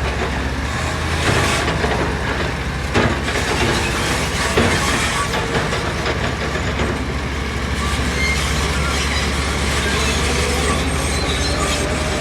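Heavy earthmoving machinery running: a steady low diesel engine hum, with a few sharp knocks about one, three and four and a half seconds in.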